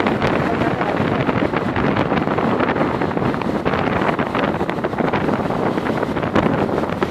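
Loud, steady rushing noise with a crackly texture and no clear tone.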